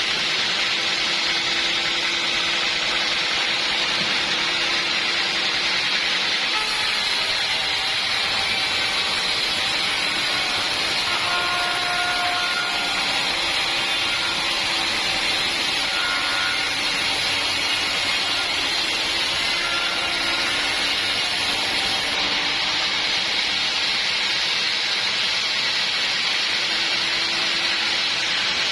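Portable sawmill running and cutting through an acacia log, a steady, loud mechanical sawing noise. A higher-pitched sawing sound joins from about a quarter of the way in until about three quarters of the way through.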